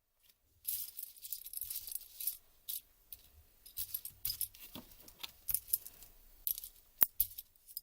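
Small laptop keyboard parts being handled: an irregular run of light clicks, clinks and rattles, with one sharp click about seven seconds in.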